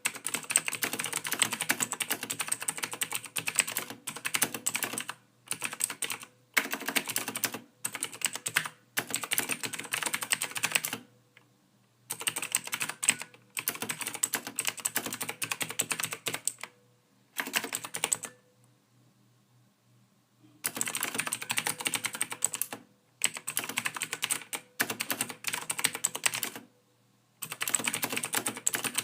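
Soft typing on a computer keyboard: runs of rapid keystrokes broken by pauses. The longest pauses come at about 11 seconds and about 18 to 20 seconds in.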